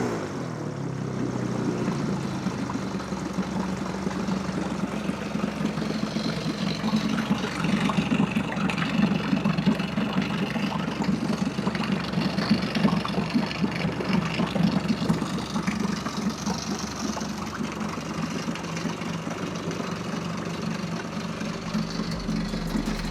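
2006 Nissan 15 hp four-stroke outboard motor running at a steady idle in a test bucket of water, freshly repaired and now running.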